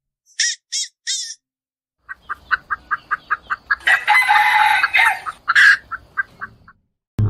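Chickens: three short, high calls, then a run of quick clucks at about five a second, with a louder, longer call about four seconds in and a shorter one soon after.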